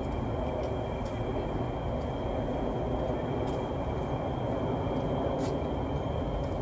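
Train standing at a station platform: a steady low rumble with a steady high-pitched whine over it.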